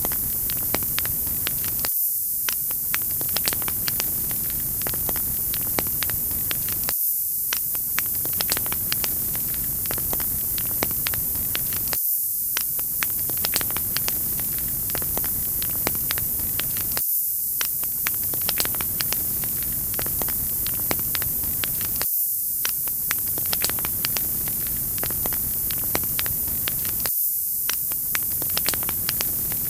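Wood fire crackling: a steady hiss with frequent small sharp pops, the pattern repeating about every five seconds.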